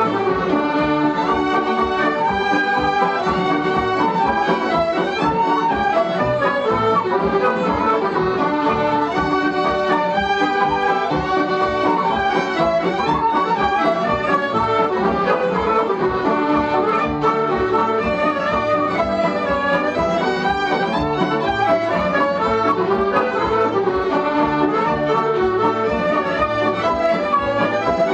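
Irish céilí band music: accordion and fiddle playing a dance tune over a steady, driving beat.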